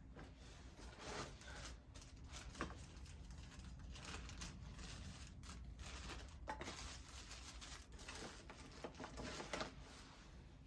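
Rustling, crinkling and tearing of tinder and kindling being handled to start a campfire, with a few light clicks and knocks.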